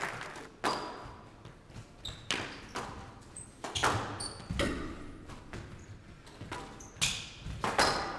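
Squash rally: the ball is struck by racquets and smacks off the court walls in irregular sharp impacts, each ringing briefly, with short high squeaks of shoes on the court floor between hits.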